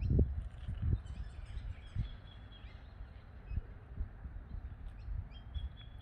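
Wild birds calling with scattered short, high chirps, faint, over a few low thuds and a low rumble that are loudest in the first second.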